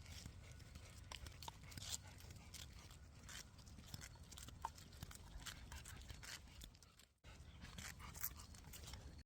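Faint, scattered small clicks and crunches from a dog, over a low rumble. The sound cuts out briefly about seven seconds in.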